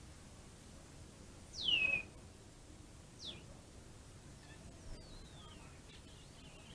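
A garden bird calling: a loud, sharply falling whistle about one and a half seconds in, a shorter falling note about a second later, then fainter falling notes.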